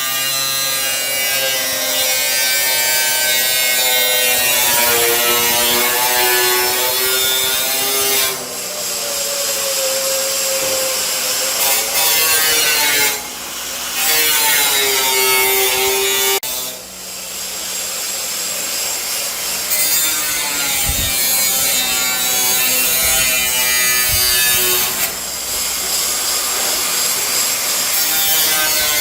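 Electric power tool cutting in several long passes, its motor pitch sagging and recovering as it bites, with short breaks between passes.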